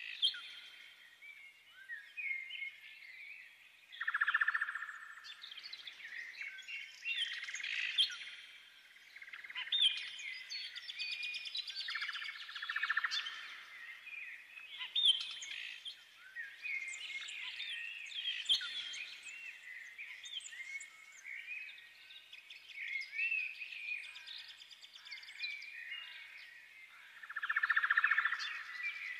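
Small birds chirping and singing: many quick rising and falling calls and trills overlap all the way through.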